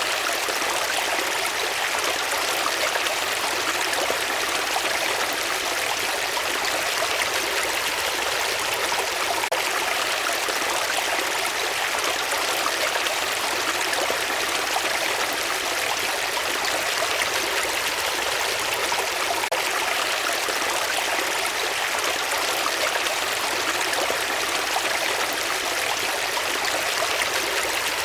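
Flowing water, like a stream, running with a steady, unchanging rush.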